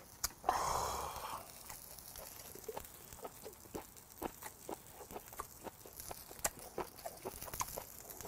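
Close-up mouth sounds of a person chewing grilled beef makchang: wet smacking clicks several times a second, after a short breathy puff about half a second in.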